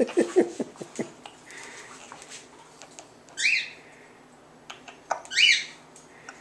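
Pet cockatiel calling twice, two loud, rising, half-second calls a couple of seconds apart, after a quick run of short, low, falling sounds in the first second.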